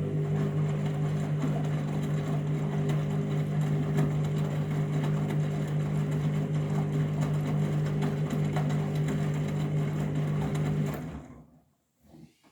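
Washing machine running on its final deep rinse, giving a steady low mechanical hum that cuts off about eleven seconds in, followed by a couple of faint clicks.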